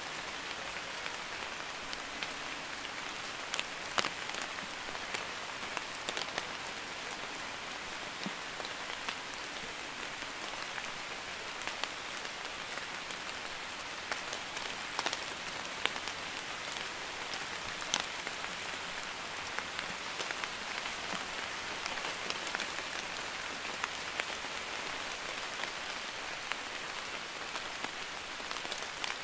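Light rain, a drizzle falling steadily: an even hiss with scattered sharper taps of single drops.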